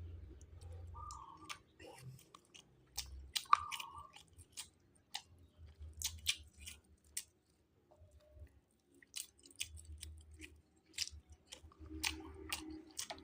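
A person chewing and eating, with irregular short mouth clicks and smacks, some louder than others.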